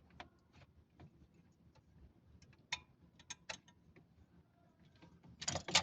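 Scattered light clicks and taps of small parts and tools being handled during repair work on a refrigerator compressor's relay and overload, with a louder clatter near the end.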